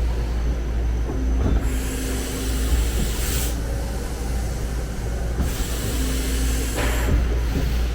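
2008 OKK HM500S CNC horizontal mill running with a steady low hum. Two hissing bursts of about two seconds each come about a second and a half in and again past the middle.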